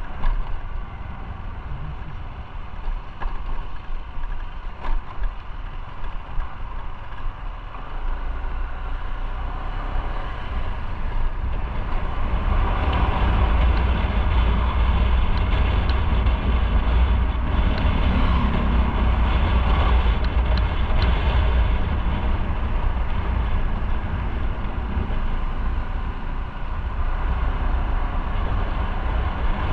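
Motorcycle on the move, heard from the bike: engine running under steady wind and road rush, getting louder about twelve seconds in.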